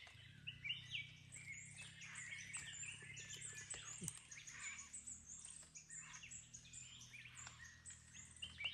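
Many wild birds chirping at once: a dense, overlapping chorus of short, high notes, many sliding downward, over a faint steady low hum.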